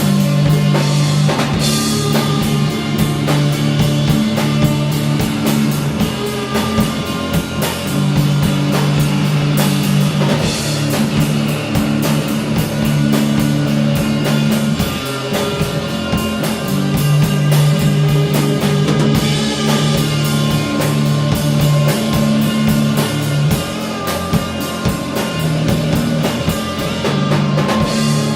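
Instrumental stoner rock: a heavy, low guitar riff over a drum kit, played as a steady groove with no vocals.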